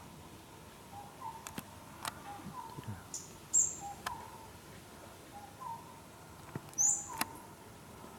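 Birds chirping: short high notes repeating about once a second, with two shriller squeaks and a few sharp clicks.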